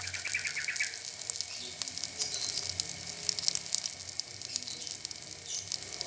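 Flour-and-egg batter balls sizzling and crackling in hot oil in the wells of a round multi-well frying pan. A brief high chirp sounds in the first second.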